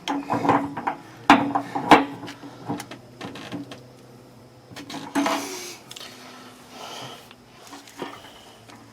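Hands and tools working on parts of an electric water heater: a run of sharp clicks and knocks in the first few seconds, the loudest about two seconds in. Then come two scraping rubs and a single click near the end.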